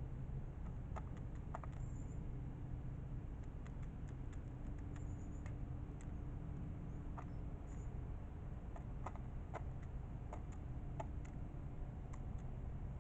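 Light, irregular taps and clicks of crows and starlings pecking, over a steady low hum, with a few faint high chirps.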